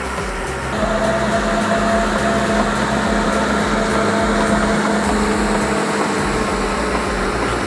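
Heavy-equipment diesel engine running steadily, a little louder from about a second in.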